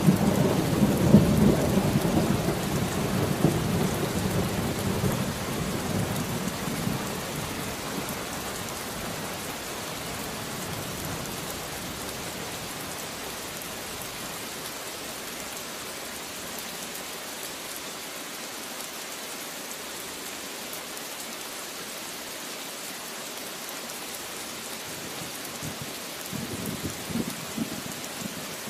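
Steady rain with thunder: a low rumble fades away over the first several seconds, leaving the even hiss of the rain, and a short, fainter rumble comes near the end.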